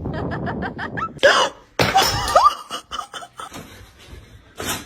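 A person laughing in a quick run of short bursts, followed by two loud thumps a little over a second in.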